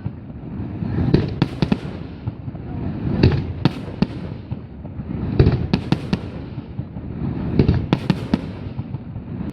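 Aerial fireworks shells bursting, with a deep boom about every two seconds and sharp cracks and bangs in between.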